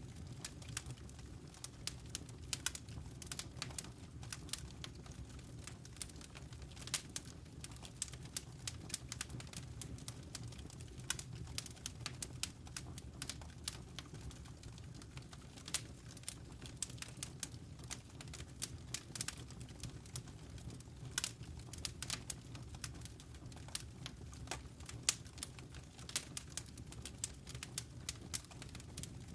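Wood fire crackling in a fireplace: many irregular sharp snaps and pops over a steady low rumble of the flames.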